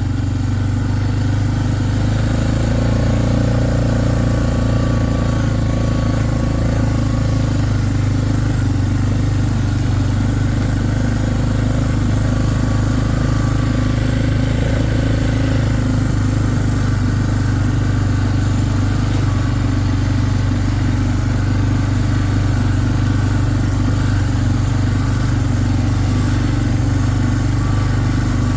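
A vehicle's engine running steadily as it drives along, holding an even pitch throughout.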